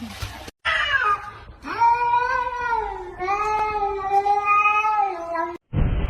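A cat meowing in long, drawn-out yowls: a short falling call, then two long, steady cries one after the other.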